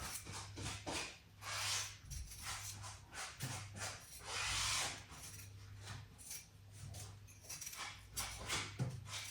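Kitchen knife peeling potatoes by hand: a run of short scraping cuts and small knocks, with two longer hissing swishes, over a steady low hum.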